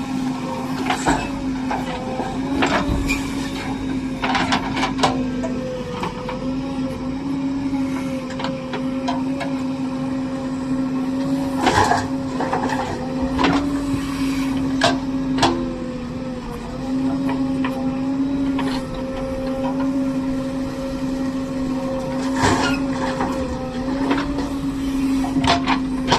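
Backhoe loader working: its engine runs with a steady hum that dips slightly now and then, and sharp knocks and clanks come at irregular moments, most clearly around the middle and near the end.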